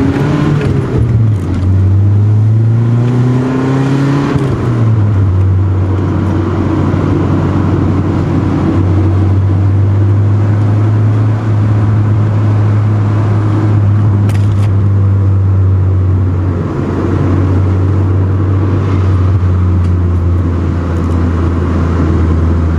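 Nissan 240SX's KA24 four-cylinder engine under way, climbing in pitch as the car accelerates through the gears with a shift about a second in. It then settles into a steady drone at roughly constant revs.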